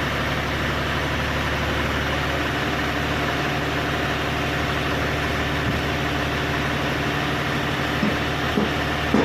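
Tractor engine idling steadily, with a few short knocks near the end.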